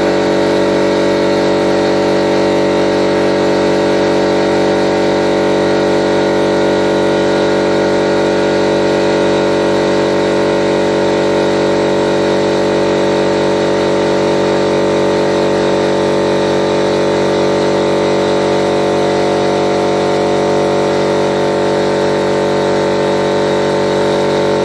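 50-litre electric air compressor running steadily with an even motor-and-pump hum, then stopping suddenly near the end.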